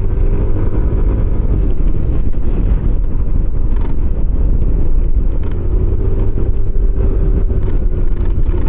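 Motorcycle engine running at a steady cruising pitch on the move, under heavy wind rumble on the microphone.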